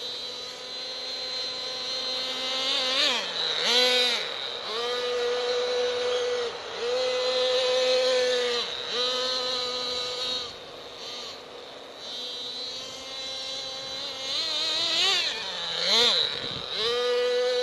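Small .28 nitro engine of a radio-controlled monster truck running at a high, steady pitch, dipping and revving back up again and again, with the quickest sweeps up and down a few seconds in and again near the end.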